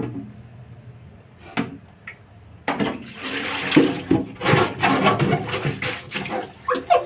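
Water from a tap running and splashing, starting about two and a half seconds in, with short knocks and clatter of things being handled under it.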